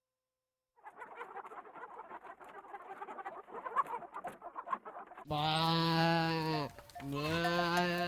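A farm animal bleating: two long, level bleats, the second starting just after the first ends, after a few seconds of busy, softer clucking-like calls.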